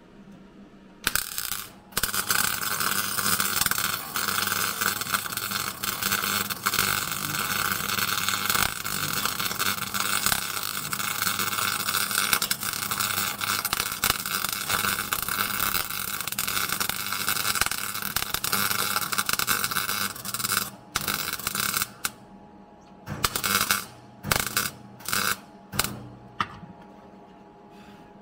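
Welder laying a seam weld on car floor-pan steel: a short burst, then a long steady run of about eighteen seconds that stops sharply, followed by about six short bursts as the weld is finished in stitches.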